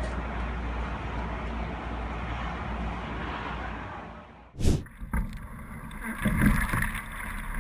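Steady rushing of wind and water on the microphone, broken off about four and a half seconds in by a sudden loud thud, followed by uneven low knocks.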